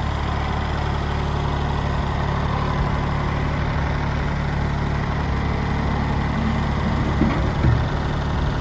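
Kubota tractor's diesel engine running steadily at an even speed, with no revving.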